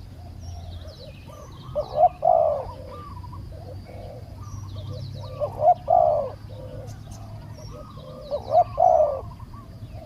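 Spotted dove cooing: a multi-note phrase repeated three times, about every three and a half seconds. Small birds chirp faintly in between.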